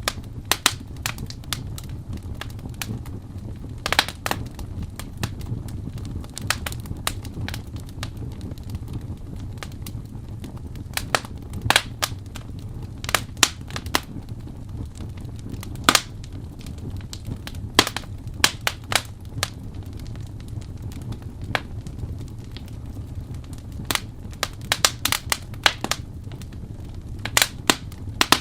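Wood fire crackling: irregular sharp pops and snaps, some louder than others, over a steady low rumble of the flames.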